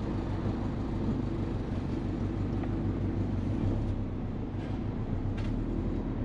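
Turbocharged Subaru Forester's EJ20 flat-four engine running steadily at a constant low speed, its note holding level without revving.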